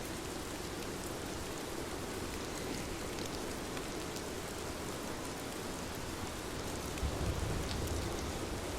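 Steady rain falling, with individual drops ticking distinctly against a dense hiss. A low rumble swells briefly about seven seconds in.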